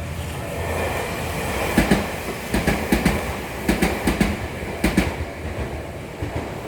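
Tokyu Ikegami Line electric train passing close by, its running noise building up and its wheels clacking over the rail joints in quick pairs several times as the cars go by.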